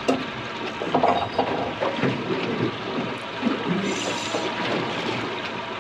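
Water sloshing and splashing around a small boat, with irregular knocks and clatter.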